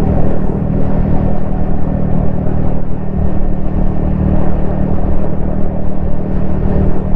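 Yamaha XSR155's single-cylinder engine running steadily at a constant cruising speed, with road and wind noise, heard from a helmet-mounted camera.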